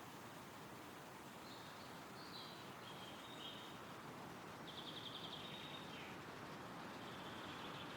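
Wind rustling through trees as a faint, steady hiss, with a small songbird singing short high phrases from about a second and a half in, including a fast trill near the middle.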